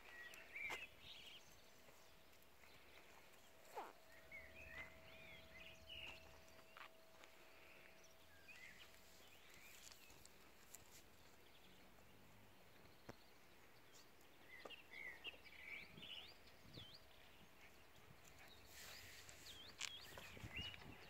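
Near silence of outdoor ambience with faint birdsong: a few scattered clusters of short chirps. A faint steady hum runs through the first half, with occasional light taps.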